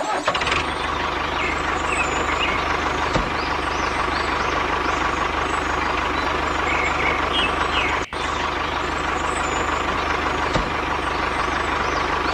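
A small motor running steadily with a faint whine over a low hum, briefly cutting out about eight seconds in.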